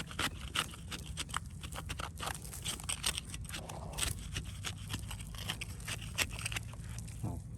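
Irregular scraping and crunching with many quick clicks, as of digging and turning over soil and stones.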